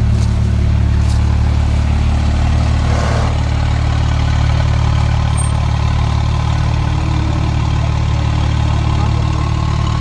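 Porsche 997 Turbo's twin-turbo flat-six idling steadily through a Soul competition exhaust, with a brief hiss about three seconds in.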